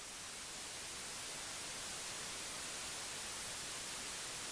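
Steady, low static hiss: an even noise with no tones or events in it.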